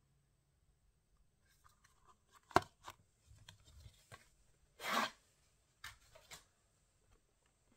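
Small handling noises: a sharp click, a short noisy rasp about halfway through, then two lighter clicks.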